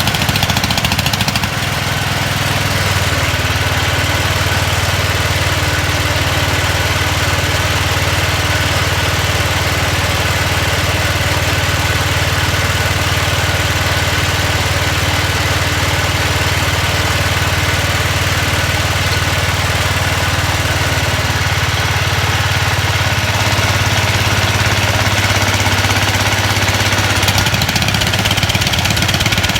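1970 Hydro 12 garden tractor engine running steadily. Its speed changes about two seconds in and again near the end. It is only running roughly: "it kind of runs".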